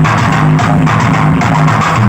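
Loud music played through a DJ sound system, with a steady beat over a repeating bass line.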